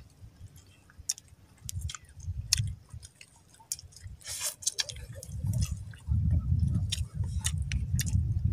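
Close-up chewing and wet mouth smacks of a person eating raw lukot (sea hare egg strands), with many short sharp clicks. A low rumble swells about two seconds in and again from about five seconds on.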